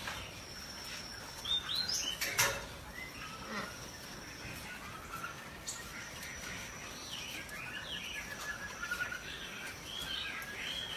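Birds chirping and calling in a run of short, rising and falling whistled chirps, with a sharp click about two and a half seconds in.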